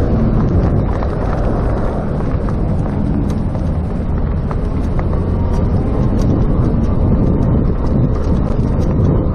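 Wind buffeting a chest-mounted GoPro's microphone while riding an electric bicycle, a steady loud low rumble with scattered small ticks.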